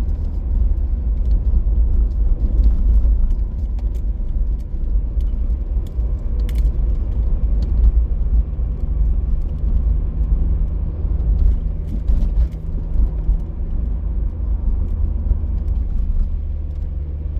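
Road and engine noise heard inside a moving car: a steady low rumble, with a low hum joining about halfway through and a few faint clicks.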